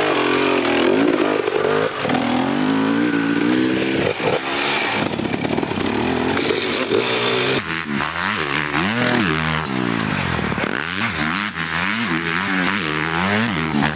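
Dirt bike engine revving as it is ridden, its pitch repeatedly rising and falling with throttle and gear changes, more quickly in the second half.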